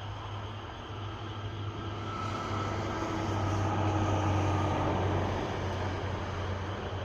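Local electric train pulling out of a station and running past. A low rumble with a faint whine builds to its loudest about four seconds in, then eases off.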